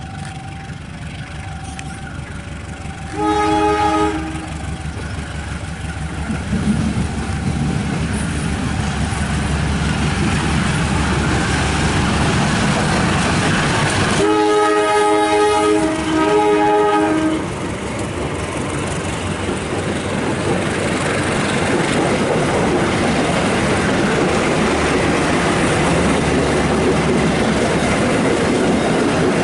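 Train horn sounding a short blast, then two longer blasts about ten seconds later, while a train rolls through the station with a rumble and wheel clatter that grow louder.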